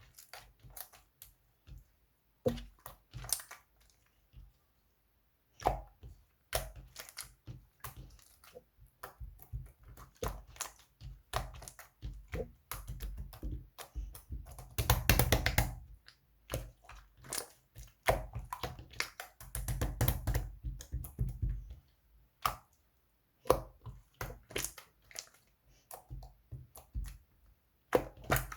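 Hands squishing and pressing jelly cleaner slime, making irregular sticky clicks and pops, with two longer stretches of denser squishing about halfway through.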